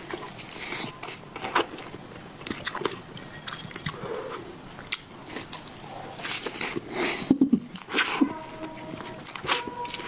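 Close-miked eating: a person biting and chewing food, with many short sharp clicks and crunches throughout.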